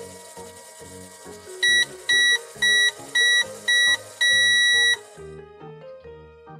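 Toy microwave beeping six times at one high pitch, five short beeps and a longer final one, the done signal as the cycle ends. Background music runs underneath.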